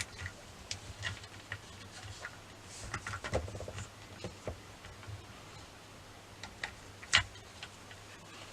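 Small irregular clicks and taps of plastic parts on a radio-controlled model car chassis being handled as a steering link is worked into place under the drive shaft, with the loudest click about seven seconds in, over a faint steady hum.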